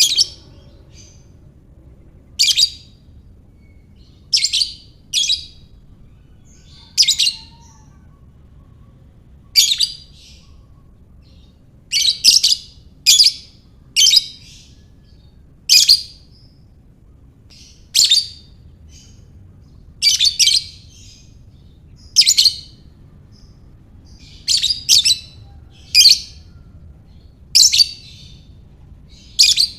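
Lovebird giving short, sharp, high-pitched chirps, one every second or two, some in quick pairs.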